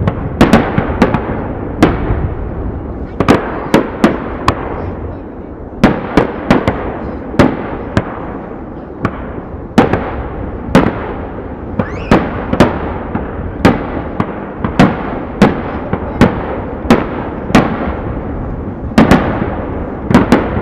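Aerial firework shells bursting in quick succession, about two sharp bangs a second over a continuous rolling rumble, heard from a few hundred metres away.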